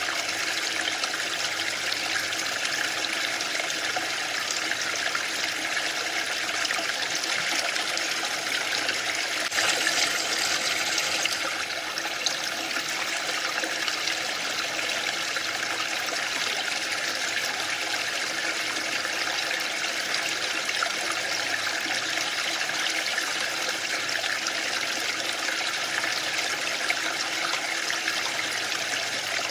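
Waterfall: a steady noise of falling, splashing water, briefly louder for about two seconds around ten seconds in.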